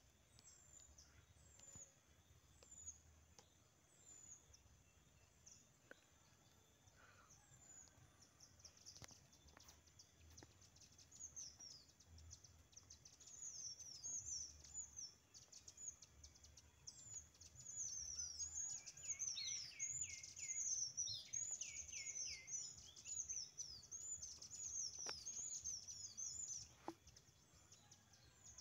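Small birds calling: short, high, downward-sweeping chirps, sparse at first and then crowding into a busy chorus, with some lower sweeping notes joining partway through.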